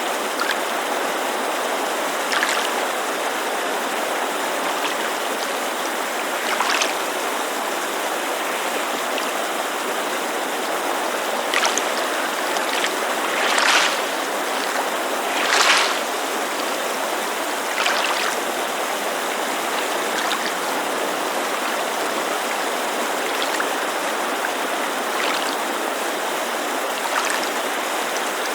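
Steady rushing of a mountain creek, with water lapping at a lake shore in small splashes every few seconds; the biggest come about halfway through.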